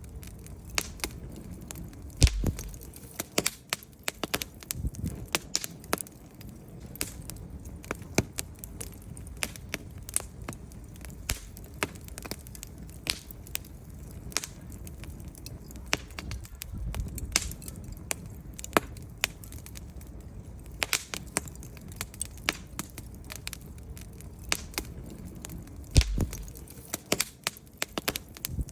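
Wood fire burning in a fireplace: irregular crackles and snaps from the burning logs over a low rumble of the flames, with a couple of louder pops, about two seconds in and near the end.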